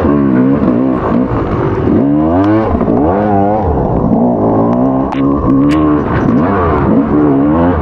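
Motocross dirt bike engine revving, its pitch climbing and dropping again and again as the throttle is opened and shut, with a few sharp knocks.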